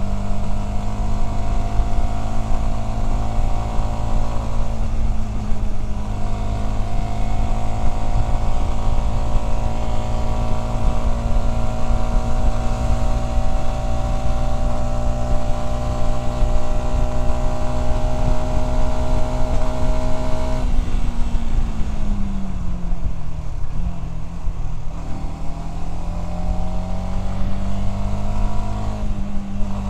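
Voge 300DS motorcycle's single-cylinder engine running under way at steady revs, its pitch creeping slowly up. About two-thirds through, the throttle rolls off and the revs fall for a few seconds, then climb again.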